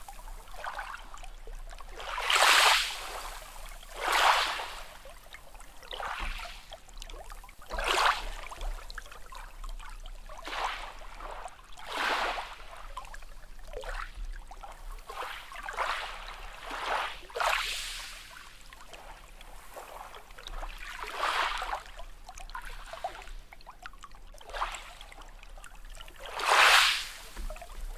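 Small sea waves lapping and splashing, a new splash every second or two, with the loudest ones about two seconds in and near the end.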